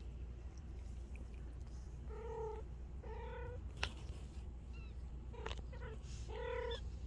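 Bengal kittens mewing: three short, steady-pitched mews, about two and three seconds in and again near the end, with a sharp click in between, over a steady low hum.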